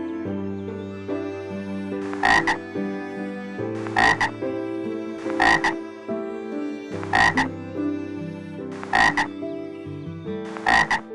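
An animal's short call of two quick pulses, repeated six times about every 1.7 seconds, over background music.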